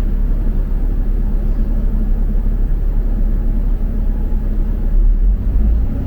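Double-decker bus on the move, heard from inside: a steady low rumble of engine and road noise, whose deepest part shifts about five seconds in.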